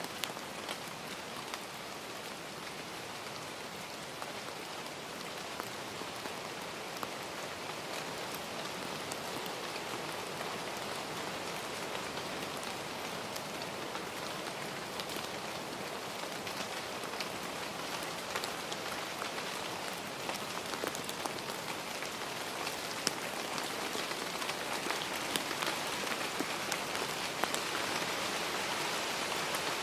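Steady rain falling: an even hiss scattered with faint ticks of drops, growing a little louder toward the end.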